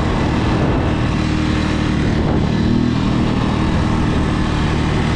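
250cc two-wheel-drive ATV engine running steadily as the four-wheeler is ridden, its note shifting slightly about halfway through.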